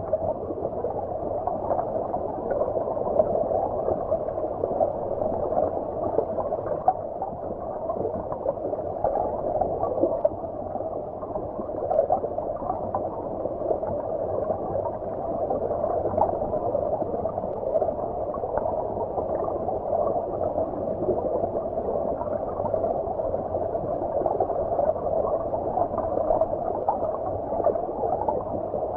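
Stream water heard from beneath the surface: a steady, muffled gurgling rush with small scattered pops and bubbles.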